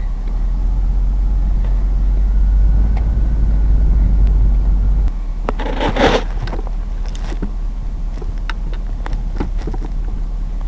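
Pickup truck engine running with a low rumble, which stops suddenly about halfway through. Right after, a brief loud rustle and scrape, then scattered clicks and knocks of gear being handled.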